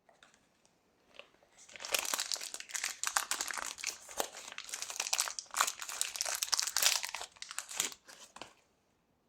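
Dense, irregular crinkling and crackling, as of crinkly material being handled, starting about a second and a half in and stopping shortly before the end.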